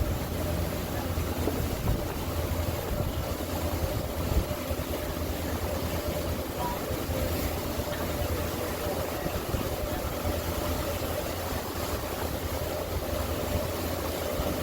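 A passenger ferry boat's engine running steadily under way: a constant low drone with a steady higher hum over it.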